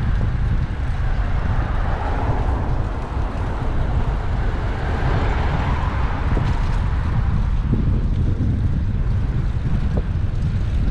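Street traffic and low wind rumble heard from a microphone on a moving bicycle, steady throughout; the traffic noise swells and fades between about two and six seconds in.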